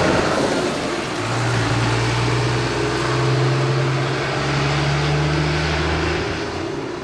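Electric multiple-unit train of set A07 running, a loud rumble of wheels and machinery with a low motor hum that rises slightly in pitch and fades out shortly before the end.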